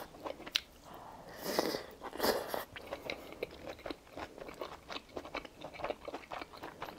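A person chewing a mouthful of crunchy stir-fried vegetables with arugula: many small crackly crunches, with a few louder bites in the first half.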